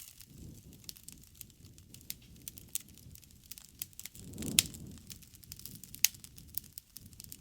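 Wood campfire crackling with frequent small pops over a low rush of flame. The flame noise swells about four and a half seconds in, with the sharpest pop there and another about a second and a half later.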